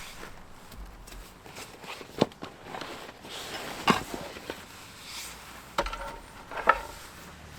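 About four separate sharp knocks or clacks, spaced a second or two apart, with quiet rustling and handling noise between them.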